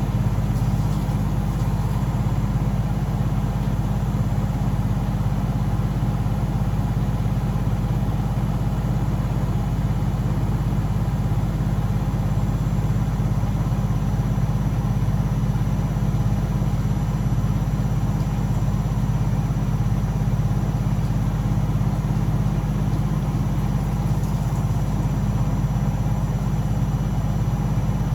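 Blomberg WAF 7442 SL washing machine running with a steady, unbroken low hum and whir.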